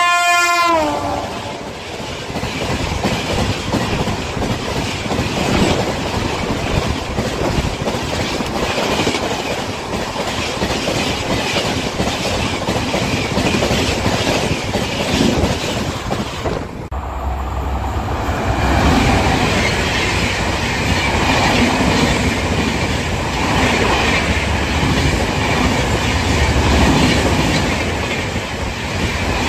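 Indian Railways train passing at speed: its horn sounds and drops in pitch in the first second, then the wheels clatter steadily over the rails. About 17 s in the sound cuts abruptly to another passing train, with more low rumble.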